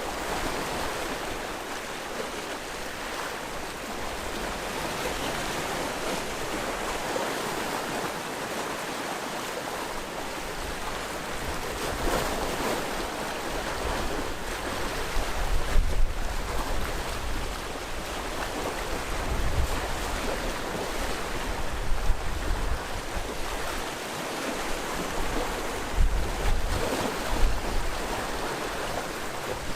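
Sea waves washing steadily on the shore in a continuous hiss, louder in the second half with several deep surges as bigger waves come in.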